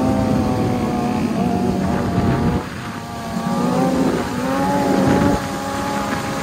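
Motorcycle engine running at freeway speed with a steady, even note. The note drops off about two and a half seconds in, builds back up over the next second or two, and dips briefly once more near the end.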